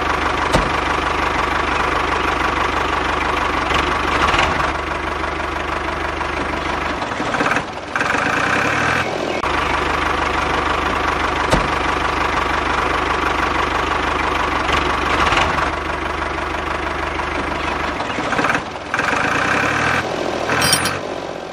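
Truck engine running steadily after starting, with a short change in its sound about seven seconds in and again near the end.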